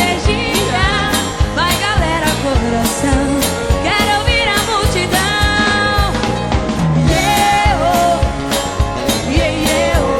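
Live band music: an instrumental passage of an upbeat pop-country song, with a steady drum beat under a bending lead melody line.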